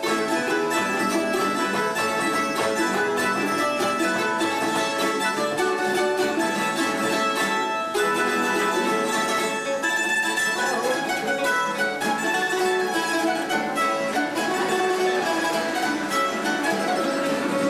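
A string trio of bandurria, laúd and guitar plays an instrumental passage of a Cádiz carnival tune, with plucked melody over guitar accompaniment.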